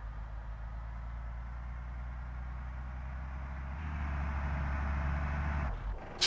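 Heavy truck's diesel engine running under load, a steady low rumble that grows louder about four seconds in and eases off near the end, just as a sharp air-brake hiss starts.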